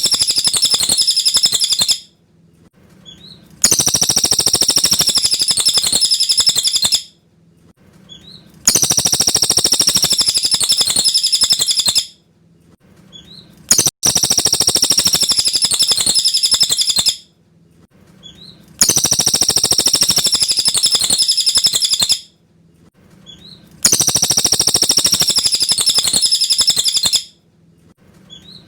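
Cililin bird singing: a loud, high, fast chattering phrase of about three seconds, repeated identically about every five seconds, six times, as on a looped master recording. A faint short call comes in each gap before the next phrase.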